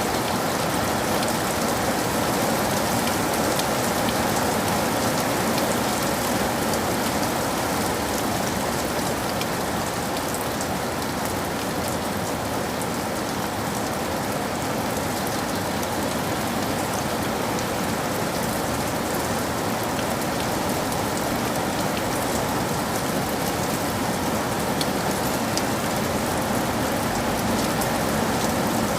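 Steady rain falling, with a constant hiss and the patter of drops on a surface.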